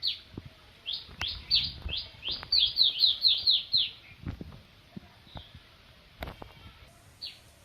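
A bird chirping: a quick run of about a dozen short, downward-sliding chirps over the first four seconds, then one more chirp near the end. A few sharp clicks and soft low knocks come in between.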